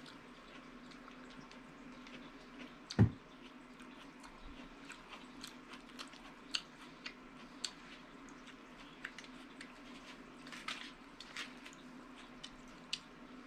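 Close-miked wet chewing and slurping of soft pasta noodles, with scattered sharp mouth clicks and smacks over a faint steady hum. A single loud thump comes about three seconds in.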